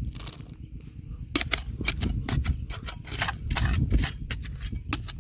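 Stones and gravel clicking and knocking against each other in a quick, irregular run that starts about a second in, over a low rumble.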